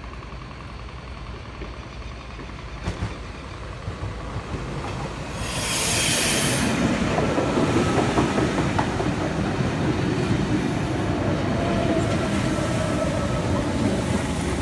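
Electric suburban train moving at a station platform: the rumble of the train grows louder about five seconds in, with a short burst of hissing air as it comes in, and keeps rumbling to the end.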